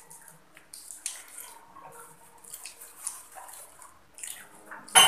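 Children chewing fried banana fritters: scattered short, soft eating noises. A sudden loud noise comes right at the end.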